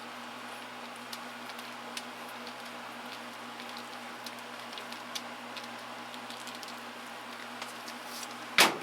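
Faint, scattered light clicks and taps of small metal tools being handled and sorted, over a steady background hum, with one louder sharp knock near the end.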